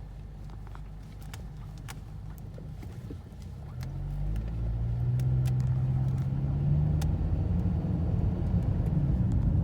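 2017 Honda Accord running, a low rumble that gets louder about four seconds in and settles into a steady low hum, with scattered faint short ticks.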